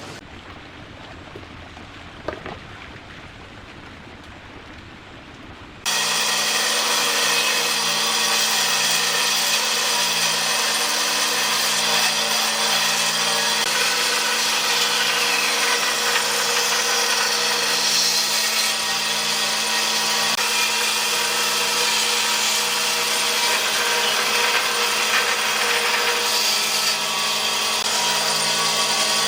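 An electric power tool running steadily on wood. It cuts in suddenly about six seconds in, after a few quieter seconds that hold a single knock.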